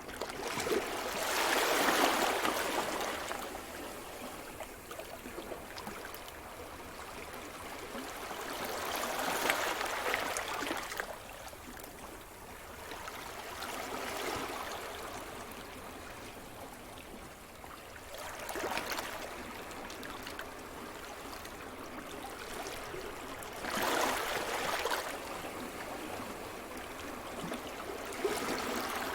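Sea surf: waves breaking on the shore in four louder swells several seconds apart, with a steady wash of water between them.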